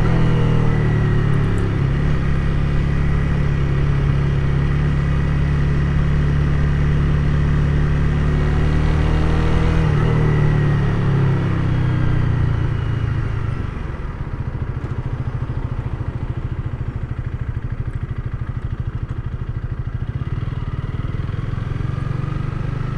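Honda Rebel 300's single-cylinder engine running steadily under way, easing off about ten seconds in and settling to a lower, pulsing idle from about fourteen seconds.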